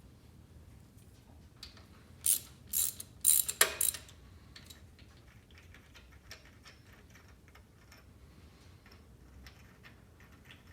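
Hand tap and tap wrench chasing threads in metal, with ratchet-like clicking. A few loud sharp metallic clicks and scrapes come about two to four seconds in, then only faint scattered ticks.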